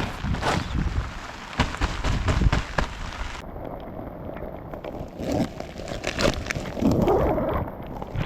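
Heavy rain falling, with many separate drop hits and a low rumble underneath. The sound turns duller about a third of the way through.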